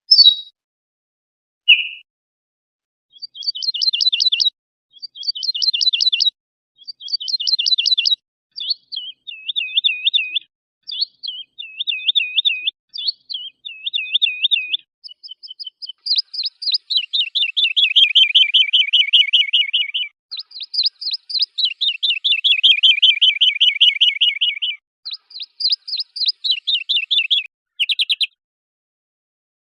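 Songbird song from a mixed recording of several singing birds: short, rapid trilled phrases repeated with brief pauses, then looping whistled notes, then long, fast, dense trills around the middle and latter part, each phrase stopping cleanly into silence.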